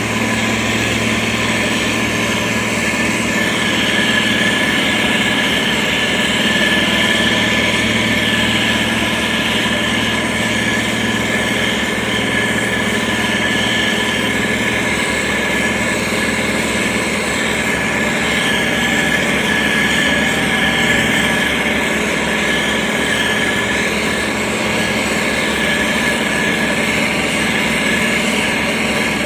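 Motor grader's diesel engine running steadily, a constant low hum with a steady high tone over it.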